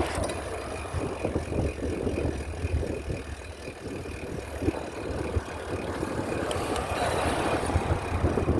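A bicycle on the move: a steady rumble with irregular rattling, along with a faint steady high whine.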